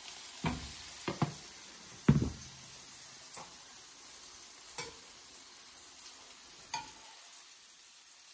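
Battered shrimp patties sizzling in oil in a stainless steel frying pan, a steady hiss. A few short knocks and clinks of kitchen utensils come through it, the loudest about two seconds in.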